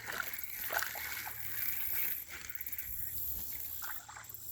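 Hooked largemouth bass splashing in the water as it is reeled in, a run of small irregular splashes.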